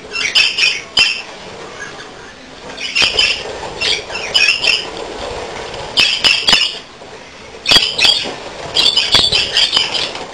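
Budgerigars chirping and squawking in short, sharp bursts of several quick calls, repeated every second or two.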